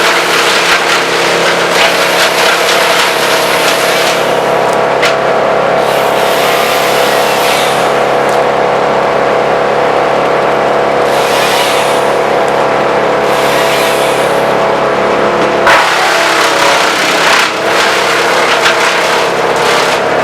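Vermeer BC1000 wood chipper running at steady high engine speed while branches are fed through and chipped, a dense crackling rush. The chipping thins to a few short bursts for several seconds in the middle, then comes back strongly near the end.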